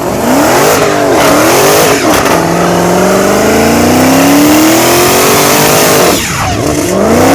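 Car engine revving hard through a burnout: short rev climbs and drops, then one long rising rev that falls away sharply about six seconds in before it climbs again.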